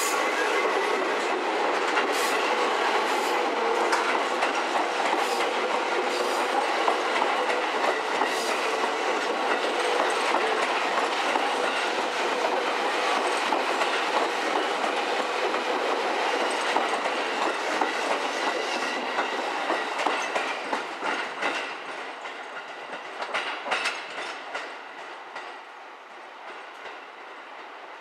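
Seibu 10000 series Red Arrow electric train passing close by, its wheels clicking over rail joints and points. The sound fades from about twenty seconds in as the train moves away, with a last short run of clicks near the end.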